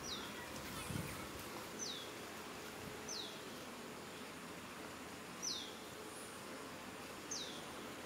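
A bird's short, high call note sliding down in pitch, given five times at irregular gaps of one to two seconds, over a faint steady background hiss.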